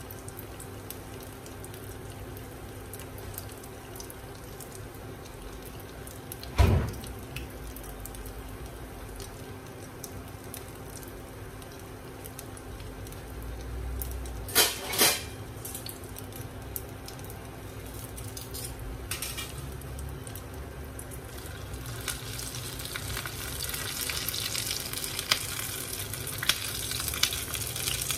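Chả giò (Vietnamese spring rolls) frying in oil, a steady sizzle that gets louder and brighter in the last few seconds. A loud knock comes about seven seconds in, and two more close together around fifteen seconds in.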